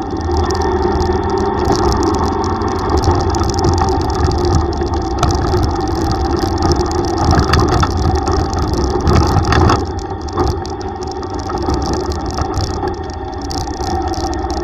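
Yamaha YTX125 motorcycle's single-cylinder engine running steadily on the move, with road noise and a few short clatters partway through.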